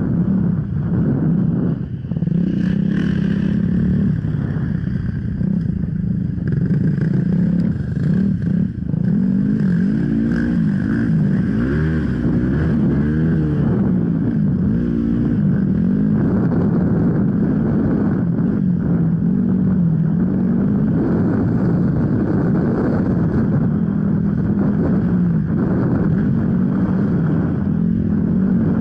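Enduro motorcycle engine running hard on an off-road course, its pitch rising and falling again and again as the throttle opens and closes.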